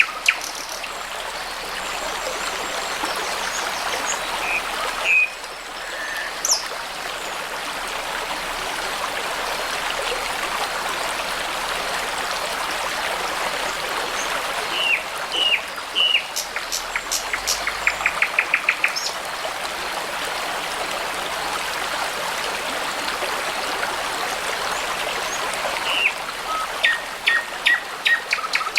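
Babbling brook running steadily, with songbirds calling now and then over it: short chirps and whistles, a quick series of about eight notes past the middle, and a burst of calls near the end.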